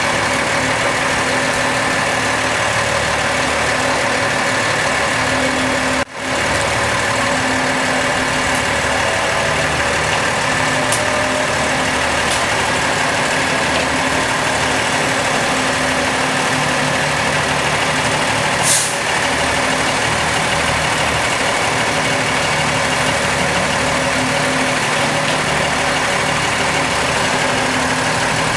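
Heavy road-work vehicle engine running steadily, with a sudden brief break about six seconds in and a short high hiss later on.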